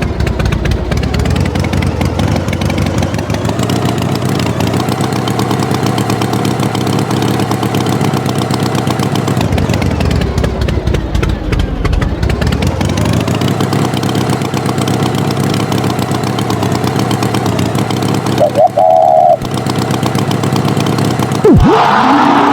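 Tractor engine running steadily, its tone sweeping down and back up around the middle, with a short higher-pitched sound near the end.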